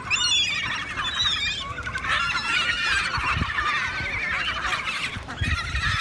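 A flock of seagulls calling over one another in a dense chorus of squawks, easing briefly about five seconds in.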